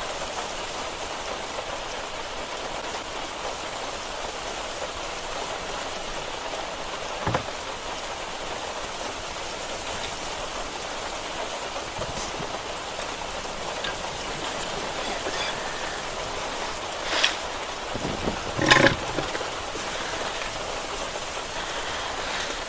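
Steady rain hiss, with a few short knocks or clanks from work on the car: one about a third of the way in and two near the end, the last the loudest.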